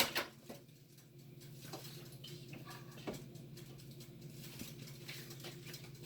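A sharp knock at the very start, then a faint, steady low hum with a few light clicks and taps, typical of a phone being set down and handled.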